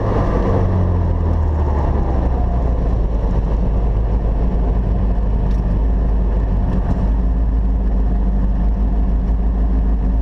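Mitsubishi Lancer Evolution VIII's built 2.0 L turbocharged four-cylinder, heard from inside the cabin, running at low revs with a steady, deep drone. The pitch drops slightly in the first second and then holds even.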